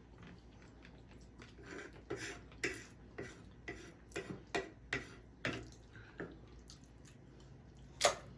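Close-up eating sounds: a run of short, wet clicks, about two a second, from chewing and mouth movements, with one louder click near the end.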